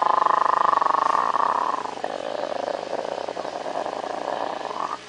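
Chameleon making a long, rapidly pulsing buzzing rattle while drinking water. It is loudest in the first two seconds, then carries on weaker and stops just before the end.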